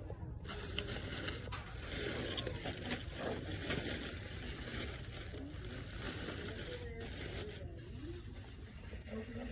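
Close rustling and crinkling as something is handled, starting abruptly about half a second in and easing off near the end, with faint voices in the background.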